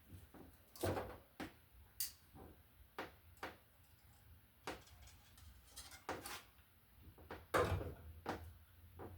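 Irregular small clicks and knocks of hand tools and wires being handled while wiring a wall receptacle, with two louder knocks about a second in and again near the end.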